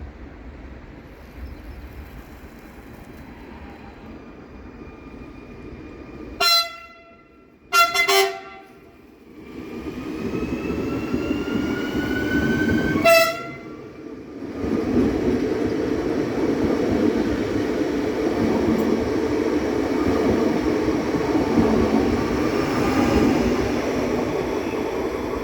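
Electric multiple unit (CFR RE-IR101) sounding its horn in short blasts: one about six seconds in, two close together about two seconds later, and one more near thirteen seconds, with a rising electric whine in between. The train then runs past, its wheels on the rails making a steady rumble.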